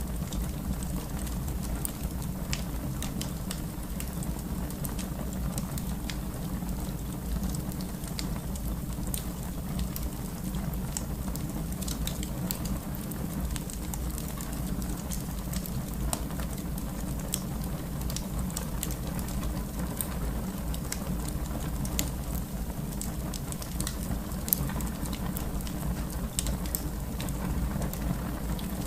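Wood fire burning in a fireplace: a steady low rush of flames with frequent sharp crackles and pops, a couple of them louder about three-quarters of the way through.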